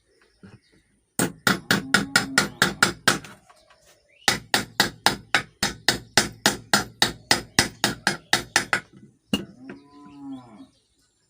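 Hammer tapping a 6201 ball bearing into place in a ceiling fan, in two rapid runs of strikes about five a second, then one single blow.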